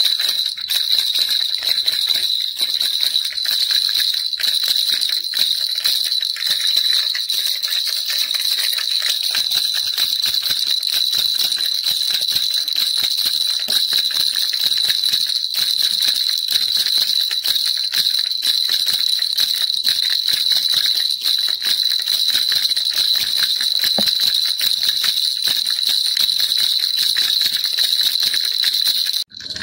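Baby rattle shaken continuously: a dense, bright jingling that breaks off for an instant near the end.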